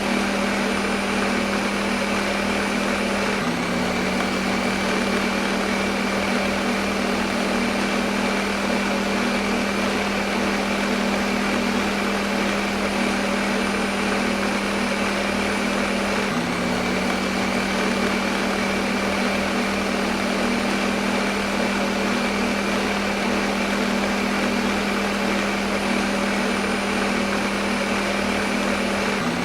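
Electric kitchen blender running steadily at full speed: a dense whirring noise over a constant motor hum, with a slight hitch in the hum about every thirteen seconds.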